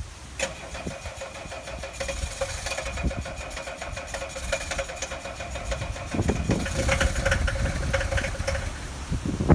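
Diesel car engine cranked on the starter in a cold start, catching and running from about six seconds in.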